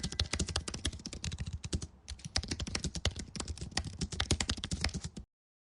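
Rapid, irregular computer-keyboard typing clicks, stopping abruptly a little over five seconds in.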